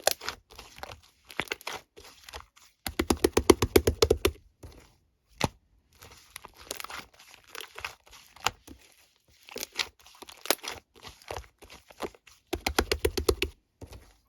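Slime being squeezed, stretched and pressed by hand, making runs of small sharp pops and crackles. There are two denser runs of rapid popping, about three seconds in and near the end.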